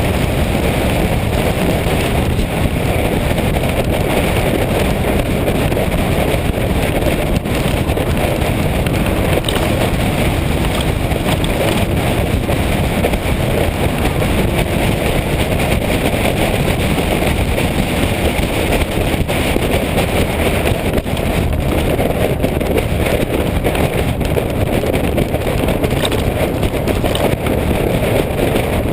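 Motorcycle under way: a steady rush of wind on the microphone mixed with engine and road noise, unbroken throughout.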